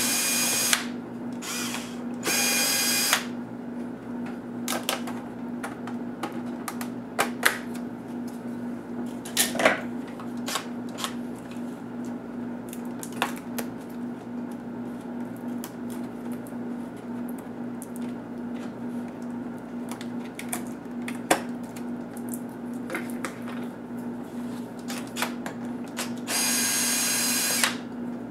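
Power screwdriver whirring in short bursts: once at the start, again about two seconds in, and for about a second and a half near the end, driving laptop screws. Between the bursts come scattered light clicks and taps of screws and plastic parts being handled, over a steady low hum.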